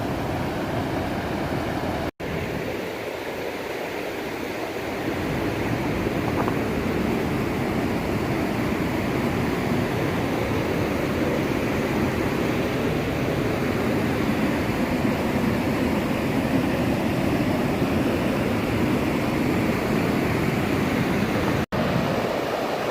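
Flood-swollen stream rushing down waterfalls and cascades in a steady roar of water. The sound cuts out for an instant twice, about two seconds in and near the end.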